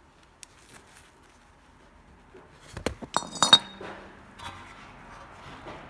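A cluster of sharp metallic clinks with a brief ringing, about three seconds in, from hard metal objects knocking together.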